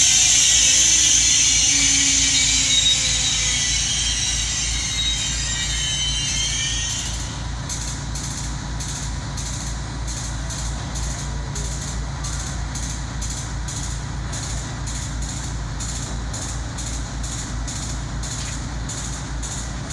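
Train moving along a station track. A loud steel-wheel hiss with faint squealing fills the first several seconds; then it settles into a steady rhythmic clicking about twice a second over a low rumble.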